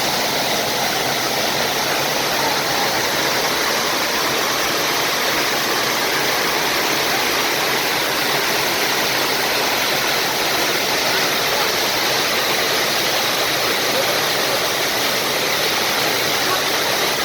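Water of the Bigăr waterfall pouring down in a steady, unchanging rush.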